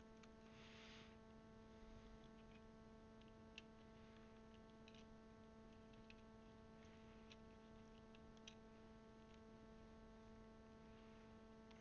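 Near silence over a steady electrical hum, with a few faint light clicks of plastic keycaps being handled and fitted onto a mechanical keyboard.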